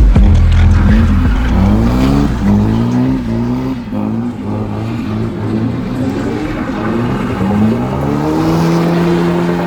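A car engine revving up and down again and again at a drift event, with tyres skidding. A heavy deep bass sits under the first few seconds.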